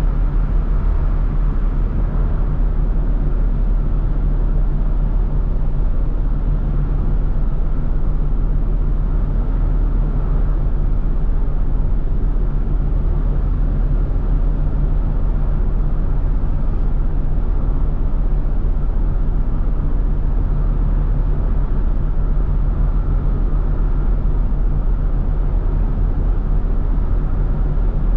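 Steady, loud engine drone with a constant low hum that does not change.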